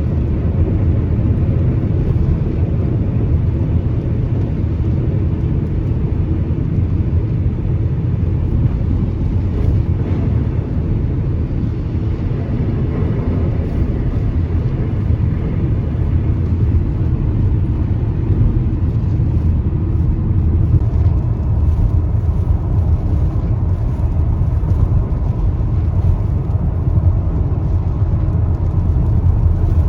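Steady low rumble of a car driving on the road: engine and tyre noise running evenly.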